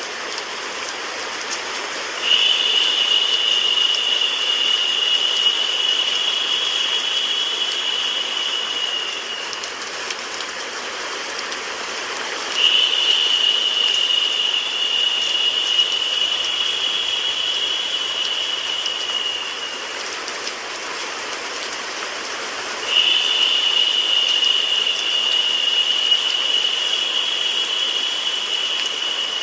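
Synthetic rain sound mixed with white noise, a steady hiss. A higher, narrower hiss comes in for about seven seconds at a time, three times at even spacing, making it louder while it lasts, as the loop repeats.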